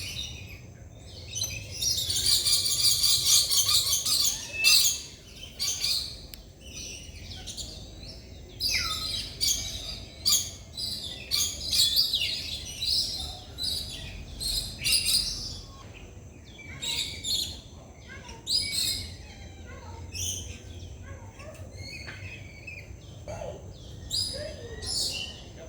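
Several birds calling: a dense run of rapid high chattering calls for a couple of seconds near the start, then scattered chirps and squawks from many birds.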